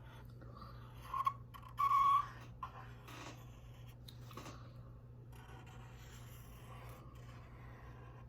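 Drawing on paper: a pen scratching in uneven strokes, with two short squeaky strokes about one and two seconds in.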